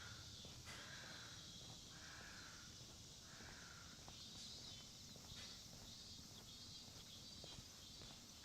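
Faint outdoor dawn ambience: a bird calling four times about a second apart in the first few seconds, with faint higher chirping and soft footsteps.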